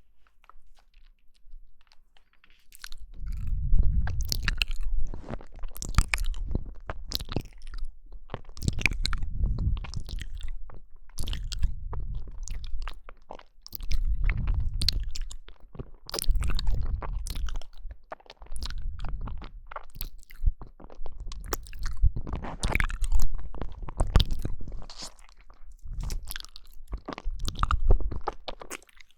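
Someone eating jelly: bouts of biting and chewing with many sharp, wet mouth clicks, starting about three seconds in.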